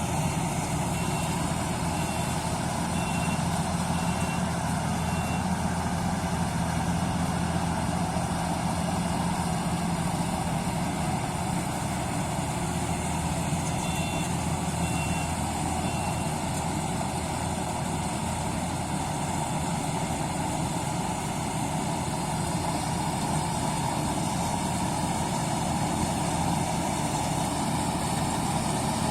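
A heavy vehicle's engine running steadily. Short high beeps sound about once a second in the first few seconds and again around the middle, like a reversing alarm.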